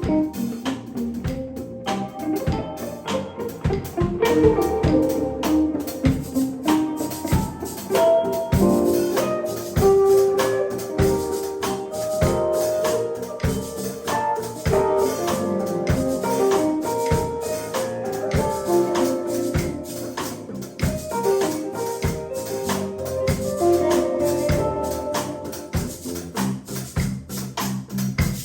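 Live band jam music, a melodic line over steady percussion, with no words sung.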